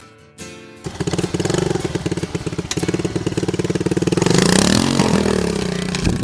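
Dirt bike engine running loud with a rapid pulsing exhaust note, coming in suddenly about a second in; it revs up to a peak about four and a half seconds in and drops back down.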